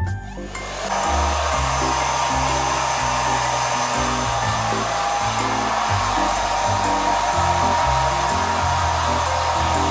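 ReFa Beautech hair dryer switched on about a second in, then running steadily: a loud rush of air with a thin steady whine from the motor.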